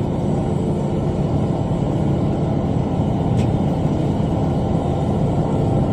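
Kubota M5 tractor's diesel engine running steadily at working speed while mowing with a bush hog.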